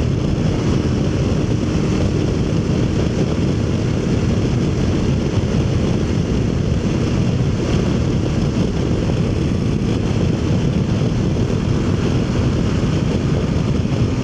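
Aprilia Tuareg motorcycle on the move, with its engine running under steady, loud wind rush on the helmet microphone.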